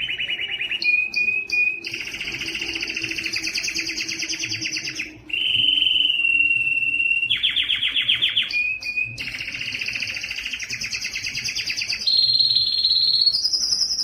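Canary singing a continuous song: fast rolling trills of rapidly repeated notes alternate with long held whistled notes, with hardly a break.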